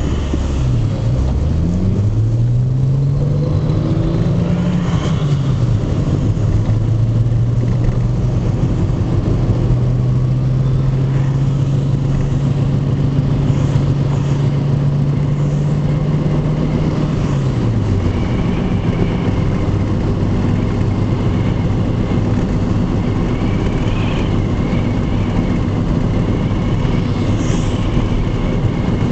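Car engine and road noise while driving. The engine pitch climbs over the first few seconds, drops at about five seconds, and holds steady. It drops again at about eighteen seconds and then runs steadily at a lower pitch.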